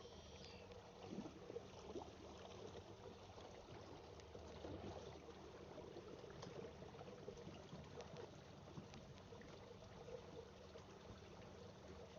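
Faint water trickling and lapping against a kayak hull as it moves through a marsh channel, with a low steady hum and scattered small crackles.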